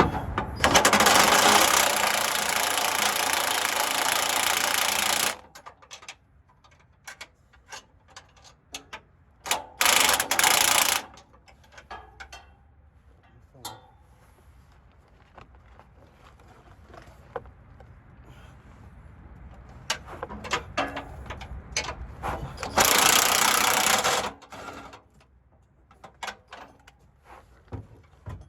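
Three bursts of a cordless power tool: a long one of about four seconds near the start, a short one about ten seconds in and another near the end, with light clanks and clicks of hand tools and parts in between.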